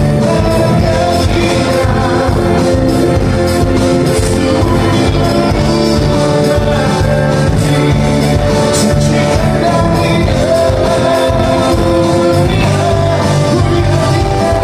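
A live band playing a song with a singer's voice over it, loud and steady.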